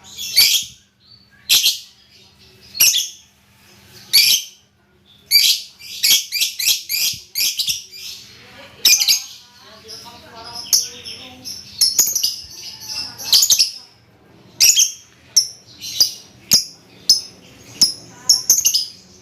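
Pet songbird chirping: a string of short, sharp, high chirps, some spaced out and others coming in quick runs.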